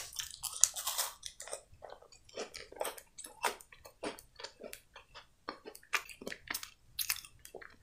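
A person chewing a mouthful of chocolate-coated wafer candy with strawberry-cream filling, heard as short mouth clicks and soft crunches several times a second.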